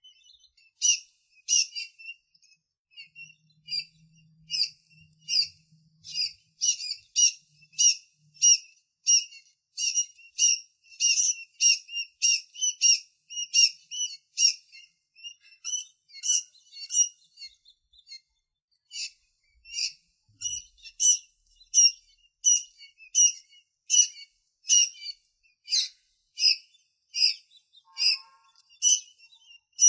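Tiny birds chirping: short, high chirps repeated about twice a second, with a brief lull a little past the middle.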